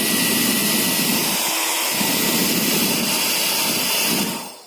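Nova foldable hair dryer running on its cool setting: a steady rush of air with a faint motor whine, switched off and winding down about four seconds in.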